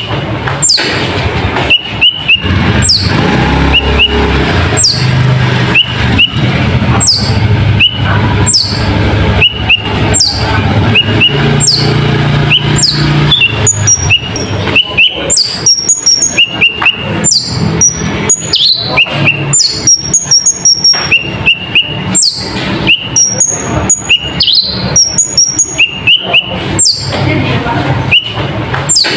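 Konin songbird singing a loud, fast repeating song: high chirps sweeping downward about once a second, with short paired chirps between them and quicker twittering phrases in the second half. A low hum runs underneath.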